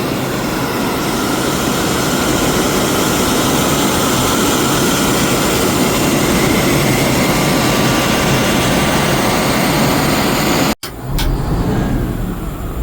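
Fire truck pump running at throttle with its water monitor discharging: a loud, steady rush of water over the engine's drone. About eleven seconds in the rush cuts off abruptly, leaving a lower engine rumble.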